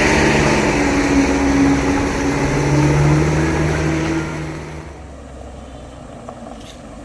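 A vehicle engine running loud and close, then fading away about four to five seconds in as the vehicle moves off.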